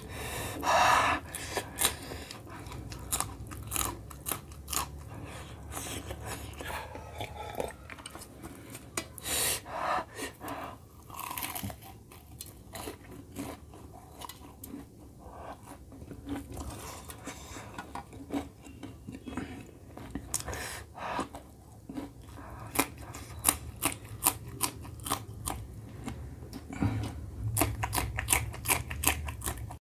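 Chewing and crunching as raw green chillies and a fried samosa are bitten and eaten, with a quick run of crisp crunches near the end.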